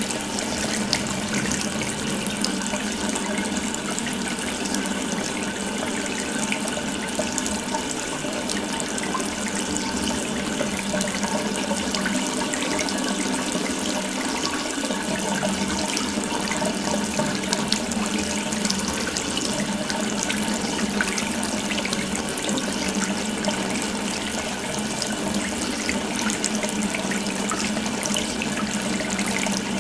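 Water tap running steadily, an open faucet stream splashing continuously into a sink.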